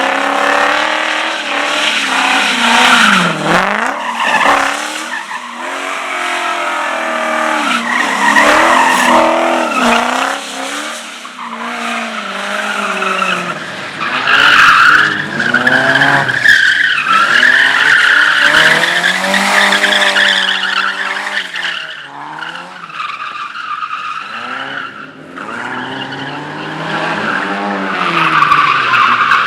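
Race car engine revving hard and dropping back again and again through gear changes and turns, with tyres squealing and skidding, loudest about halfway through and again near the end.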